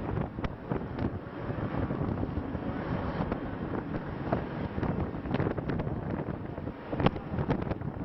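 Wind buffeting the microphone, with a few sharp cracks of distant gunfire scattered through it; the loudest comes about seven seconds in, followed by several more close together near the end.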